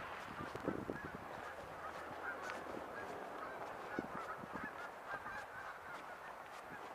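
A flock of geese honking faintly, many short calls overlapping.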